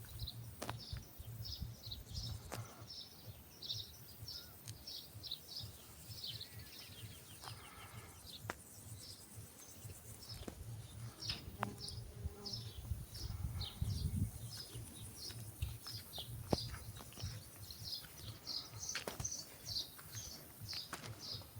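Small birds chirping continuously in short, high notes, several a second, over a low rumble with scattered clicks.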